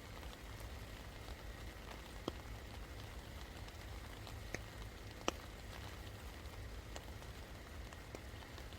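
Steady rain falling, an even hiss with scattered individual drops ticking sharply on a surface, the loudest drip about five seconds in.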